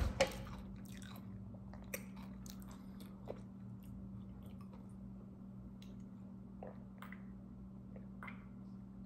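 A person chewing a mouthful of fish torta sandwich: faint, irregular mouth clicks and smacks over a steady low hum.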